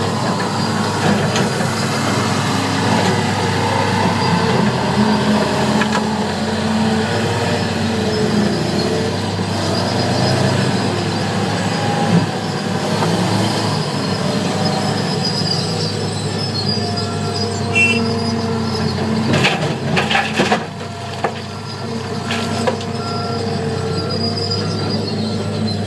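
Heavy diesel earthmoving machinery, a Cat 325 excavator loading a Terex TS14 wheel tractor-scraper, running steadily under load with shifting pitched whines. A cluster of sharp clanks comes about two-thirds of the way through.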